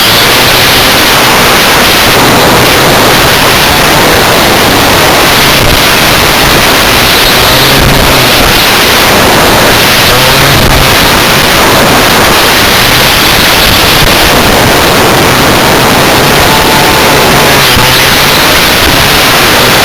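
Loud, steady wind noise rushing over the microphone of a moving go-kart, with a Rotax Max 125 two-stroke kart engine faintly rising and falling in pitch beneath it.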